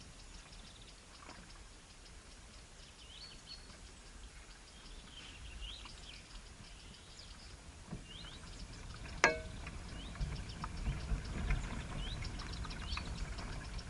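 Small birds chirping, many short rising calls repeated throughout. A sharp knock sounds about nine seconds in, and a low rumble builds over the second half.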